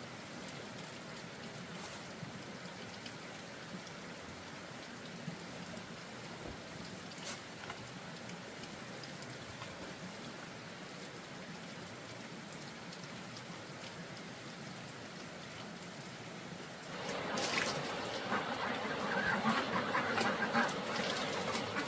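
Steady patter of falling water, like rain or a spray of water. About seventeen seconds in it grows louder and busier.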